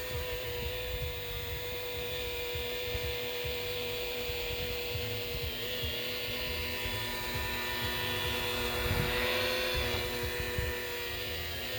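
Electric polisher buffing boat gelcoat, running at a steady pitch with a brief dip about six seconds in.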